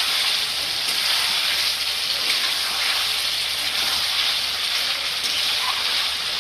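Chicken curry masala with potatoes and green chillies sizzling steadily in hot oil in a pan as the meat is slowly fried down (kosha) before water is added.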